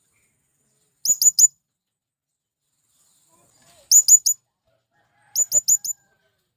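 Male blue-crowned hanging parrot (serindit) giving a shrill, very high-pitched contact call to summon others of its kind. The call comes in three quick clusters: three notes about a second in, three more a few seconds later, and four near the end.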